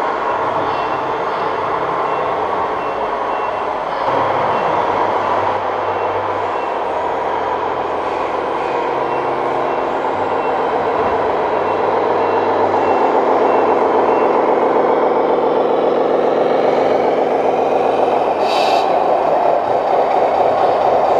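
1:14 scale RC truck's sound module playing a truck engine running, with a reversing beeper beeping steadily through the first half. A short hiss, like an air brake, comes near the end.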